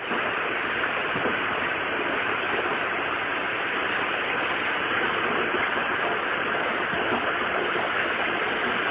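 Heavy hurricane rain falling steadily as an even hiss, with no breaks or single impacts.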